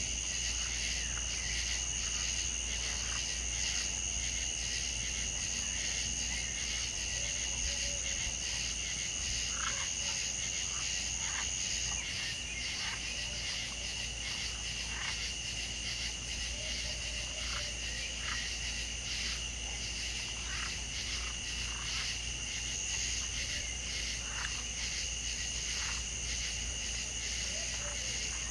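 Wild chorus of insects and frogs: a steady high insect trill, with frogs calling in short, scattered notes over a low steady hum.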